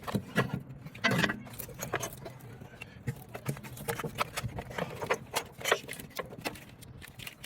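Irregular metallic clicks and clinks of hand tools and battery hardware during a truck battery installation.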